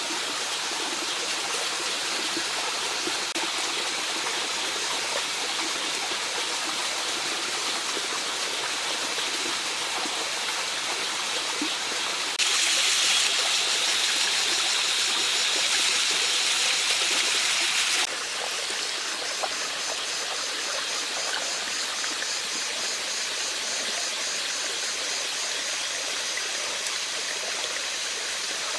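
Mountain stream running steadily over stones. It is louder and brighter for about six seconds from near the middle, then drops back. In the second half a faint, high, rapidly repeating sound sits above the water.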